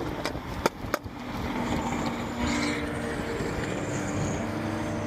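A car engine runs steadily, with a few sharp clicks in the first second.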